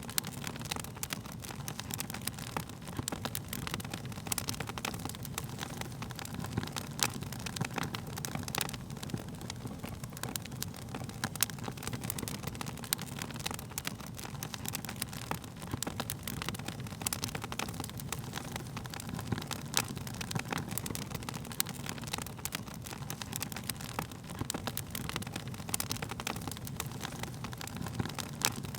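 Burning wood fire crackling, with frequent irregular sharp pops and snaps over a steady low rumble of the flames.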